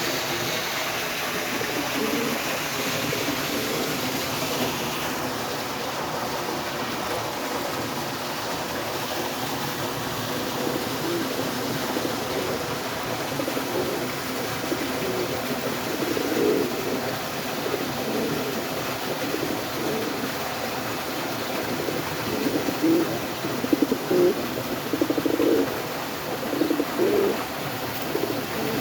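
Domestic pigeons cooing: low repeated coos that come more often and louder in the second half, over a steady background hiss.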